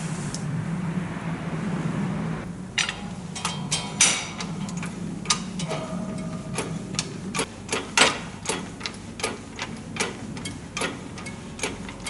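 A steady low hum stops about two and a half seconds in. Then comes a string of sharp, irregular clicks and knocks, roughly two a second, some ringing briefly.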